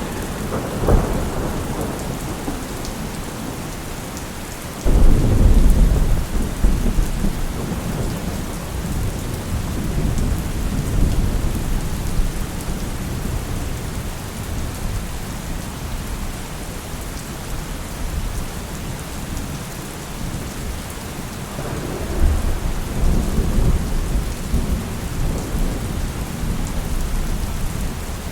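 Steady heavy rain with thunder: a sudden loud clap about five seconds in that rumbles away over several seconds, and another long rolling rumble near the end.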